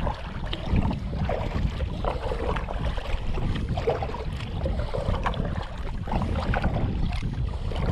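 Wind buffeting the microphone in an uneven low rumble, with light water sounds around a kayak.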